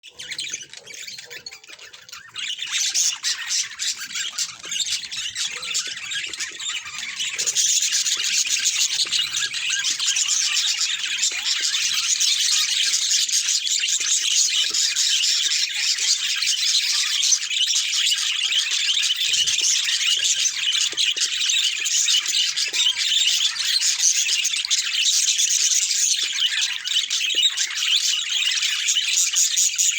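Budgerigars chattering and chirping in a dense, continuous twitter of quick high notes. It starts faint and grows louder about two seconds in.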